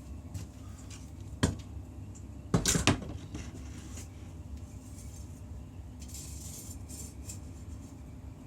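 Metal tools knocking together: one sharp click about a second and a half in, then a short cluster of clanks near three seconds, over a steady low hum.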